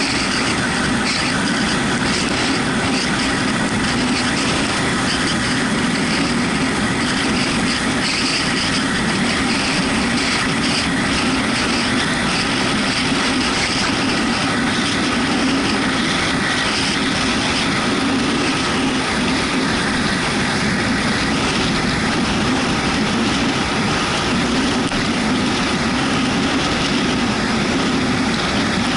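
Yamaha MT-125's single-cylinder engine running steadily on the move, under a constant wash of wind and road noise.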